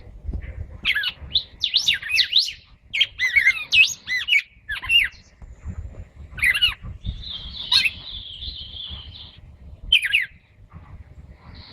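Caged pet songbirds singing and chirping in quick sweeping whistled phrases, with a buzzy held note for about two seconds past the middle.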